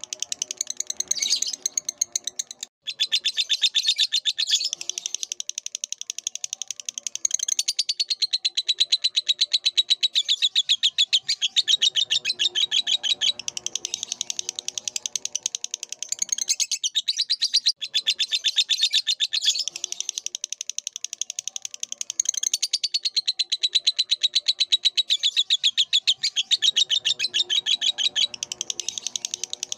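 Lovebird singing a long, rapid, high chattering trill, almost unbroken, with a brief pause near the start.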